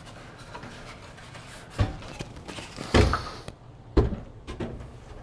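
Wooden sauna bench parts being handled and knocked into place: three thuds about a second apart, the middle one loudest.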